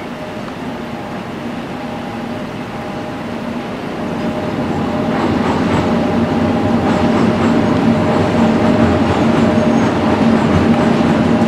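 Twin electric freight locomotives hauling a goods train: a steady hum with a few held tones over the rumble of wheels on rail, growing louder from about four seconds in as they run onto a steel truss bridge.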